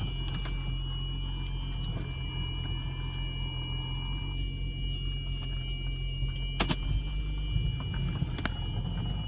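A steady high-pitched whine of several pure tones from a 2003 Audi Allroad 2.7T, holding its pitch regardless of engine speed, over the low running of the engine. It is a fault noise that appears only for the first couple of minutes after a cold morning start. A few sharp clicks come through near the end.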